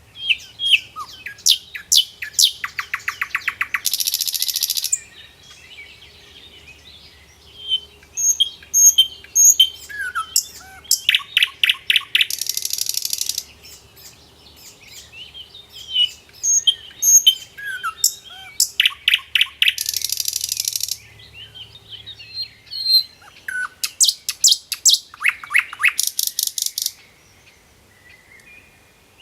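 A bird singing the same song four times, about every eight seconds: each song is a fast run of sharp notes that ends in a buzzy trill, with softer chirps in between.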